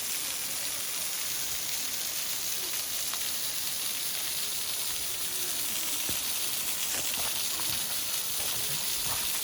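Steady hiss of falling water from a waterfall, growing slightly louder about two-thirds of the way in.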